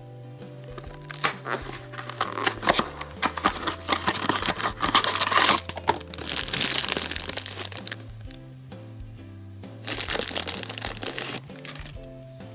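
Plastic packaging crinkling and crackling as a candy toy is unwrapped by hand, in a long rustling stretch and then a shorter burst near the end, over background music.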